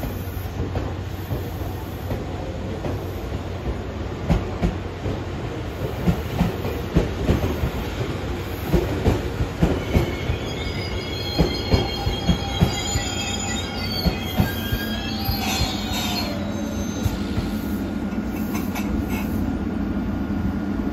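Tobu 100 series Spacia electric train moving slowly along the track, its wheels clacking repeatedly over rail joints. From about ten seconds in the wheels squeal in several high tones for a few seconds, then a steadier low rumble carries on.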